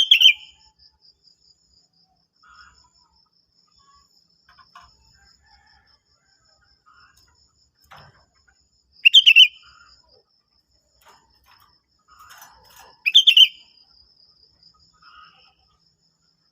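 Sooty-headed bulbul calling: three short, loud phrases, one at the very start, one about nine seconds in and one about thirteen seconds in, with faint scattered chirps between. A faint, steady high pulsing runs underneath.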